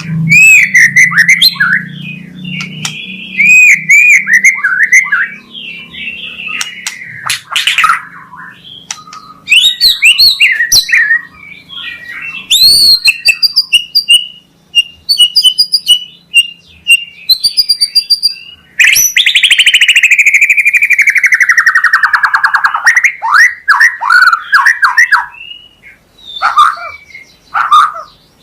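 White-rumped shama singing loudly: quick, varied whistled phrases and sharp rising calls. About two-thirds of the way through comes one long, harsh rasp that falls in pitch over several seconds.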